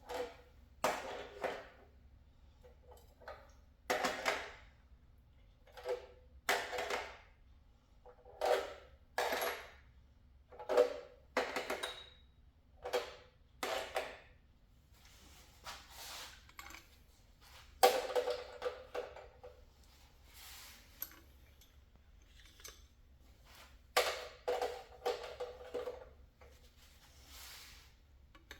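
Small metal engine parts clinking and clattering as they are handled and set down, in a string of separate short clatters over a faint low hum.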